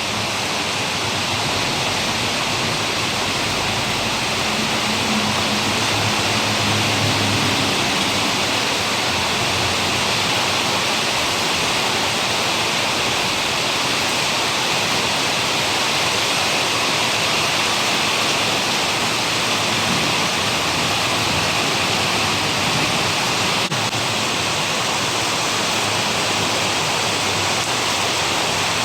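Heavy monsoon rain pouring down in a steady, even downpour.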